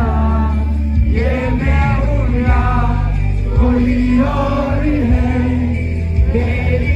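Loud live music with a man singing over heavy bass, the singing carried in long held phrases.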